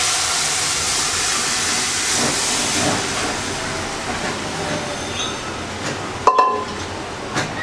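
Boiled lentils (dal) poured into hot oil with browned onion and garlic, sizzling loudly as the tempering (baghaar) hits the liquid, the sizzle easing off after a few seconds. A sharp click about six seconds in.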